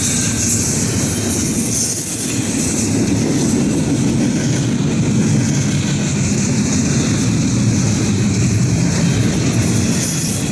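Norfolk Southern freight train's cars rolling past, steel wheels running on the rails with a steady, loud rolling noise and a high hiss.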